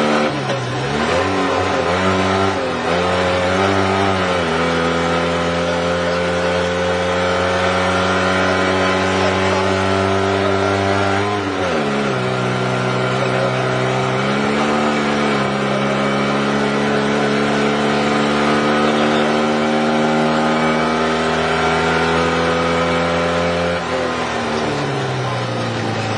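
Fiat 126p's air-cooled two-cylinder engine driven hard on a rally stage, heard from inside the cabin: its pitch climbs steadily through long pulls and drops sharply for lifts and gear changes near the start, about halfway through, and near the end.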